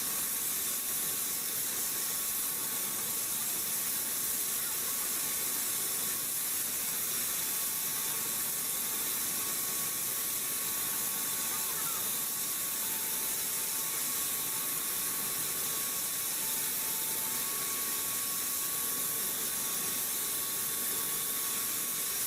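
A steady, even hiss at a constant level, strongest in the high register, with a faint thin tone that comes and goes.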